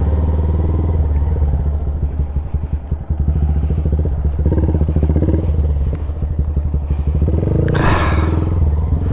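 2025 Honda Grom's single-cylinder engine, fitted with a Zoom loop exhaust, running at low revs through slow-speed maneuvering with small throttle changes; the throttle eases off briefly about three seconds in. A short rush of noise comes about eight seconds in.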